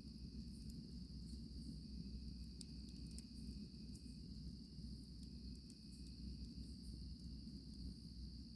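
Crickets chirping in a steady high chorus, with a campfire crackling in scattered sharp pops.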